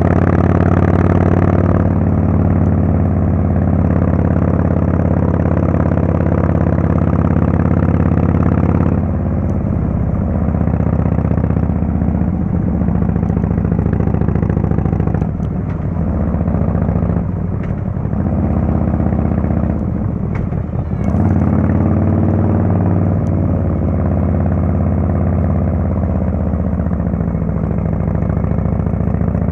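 Harley-Davidson Fatboy S's Screamin' Eagle Twin Cam 110 V-twin running through a Kesstech exhaust under way. It pulls steadily for the first nine seconds or so, then the engine note eases and drops off briefly three times, around halfway and again near two-thirds through, before it picks up and runs steadily again.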